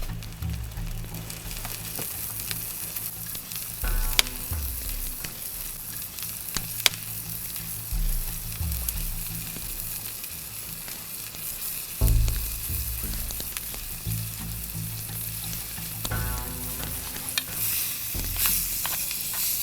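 Food frying and sizzling in a pan, a steady hiss, with a few sharp clicks of a utensil stirring it.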